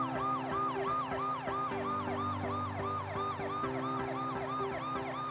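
Police car siren yelping, a fast rise-and-fall wail repeating about three to four times a second without a break.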